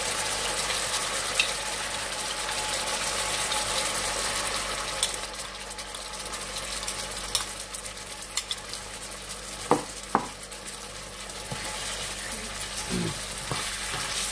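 Chicken pieces sizzling as they fry in a nonstick wok, stirred with a spatula that scrapes and knocks against the pan now and then, with two sharper knocks about ten seconds in.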